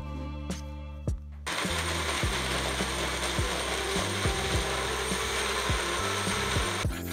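Electric kitchen blender running for about five seconds, switched on and off abruptly, over background music with a steady beat.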